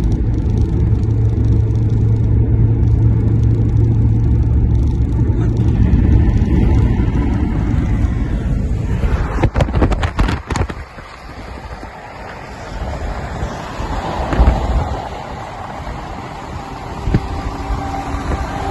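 Freeway road and traffic noise: a steady low rumble of vehicles at speed. About nine to eleven seconds in there are a few sharp knocks, after which the rumble drops to a quieter level.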